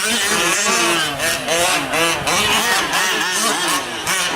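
Several 1/5-scale gas RC trucks' small two-stroke engines revving together as they race, their overlapping pitches rising and falling.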